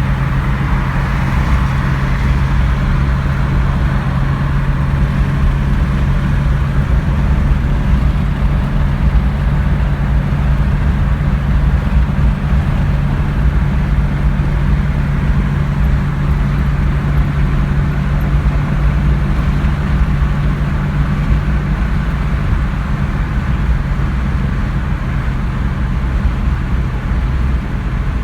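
1986 Jeep Cherokee's 2.8-litre V6 engine running steadily under way, with tyre and road noise, while the Jeep is driven at an even speed; the steady hum shifts slightly about twenty-two seconds in.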